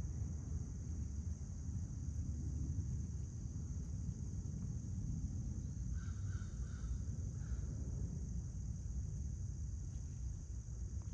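Outdoor backyard ambience: a steady high-pitched insect drone from crickets over a low rumble. About six seconds in, a bird gives a quick run of four or five short chirps.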